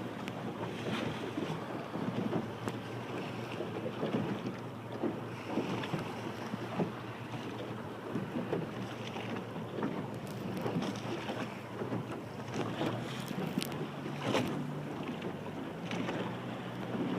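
Strong wind buffeting the microphone and water rushing along the hull of a sailing dinghy under way in a strong breeze, with frequent short splashes and slaps against the hull.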